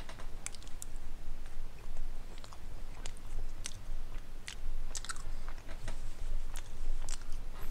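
A person chewing food close to the microphone, with irregular wet mouth clicks and smacks, over a low steady hum.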